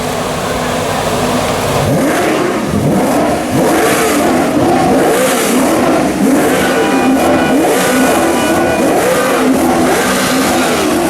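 Maserati Quattroporte GTS's 4.7-litre V8 running through a Larini sports exhaust, driving under acceleration. From about two seconds in, the engine note climbs and falls back again and again, as with revving and gear changes.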